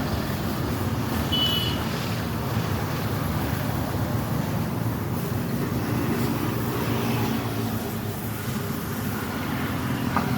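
Kawasaki Bajaj 4S Champion motorcycle's engine idling steadily, with a brief high chirp about a second and a half in.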